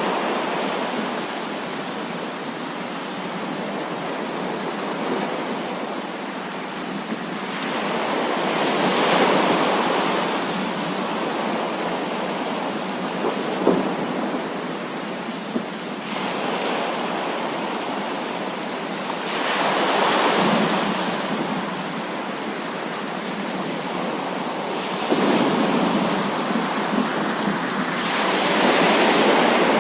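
Heavy rain falling steadily, with thunder swelling up and rolling away three times. Two brief sharp clicks come around the middle.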